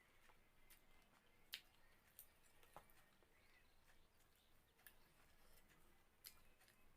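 Quiet eating sounds, near silence broken by about four faint, short clicks and soft chewing.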